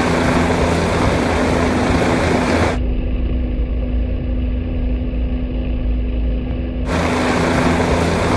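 Helicopter engine and rotor running with a steady low drone. A loud rushing noise covers it for the first three seconds, drops away, and comes back about seven seconds in.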